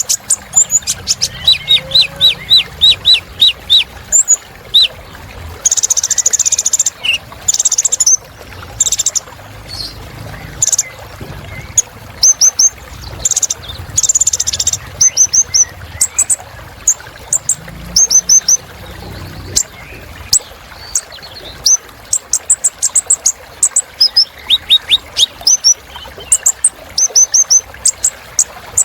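Kolibri ninja (van Hasselt's sunbird) singing a fast, varied song of sharp high chirps and quick trilled runs of short down-sweeping notes, with brief pauses between phrases.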